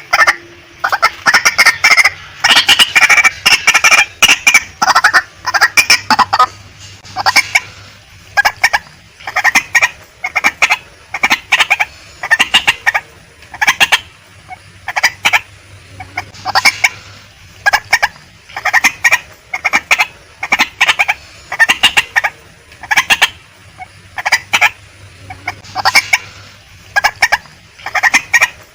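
Female white-breasted waterhen calling: harsh, clucking notes in quick clusters. The clusters are dense and run together for the first six seconds, then come in separate bursts about every one and a half to two seconds.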